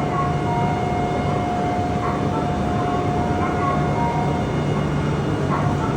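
Shinkansen platform ambience as the doors close: a steady electronic tone holds until about four and a half seconds in, with a few short higher beeps, over a constant rush of station and train noise and an on-and-off low hum.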